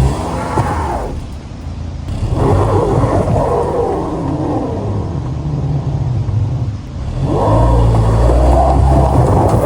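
Car engine revving hard in three long surges, straining under load as the car, stuck on a slope, tries to pull out.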